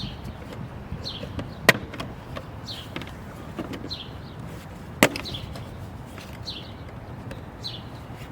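Plastic dashboard side cover of a 2017 Chevrolet Cruze snapping free of its clips: two sharp clicks, about three seconds apart. A bird gives a short falling chirp about once a second in the background.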